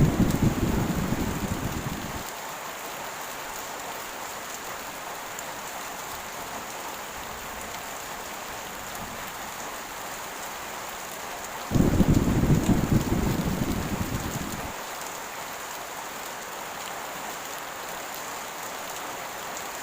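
Heavy rain falling steadily, with sudden low rumbles of thunder: one fading out in the first two seconds, and another breaking about twelve seconds in and dying away over some three seconds.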